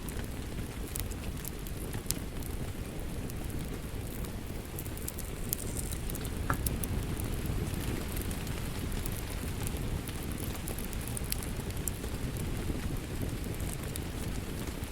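Wood fire crackling in a fireplace: scattered sharp pops and snaps over a steady low rumble of flames.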